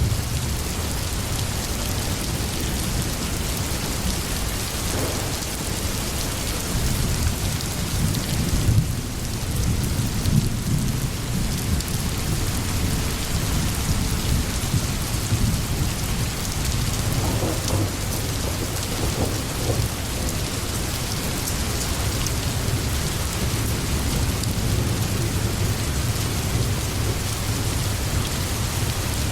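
Steady rain, an even hiss, with a deep rumble underneath that swells about nine to eleven seconds in.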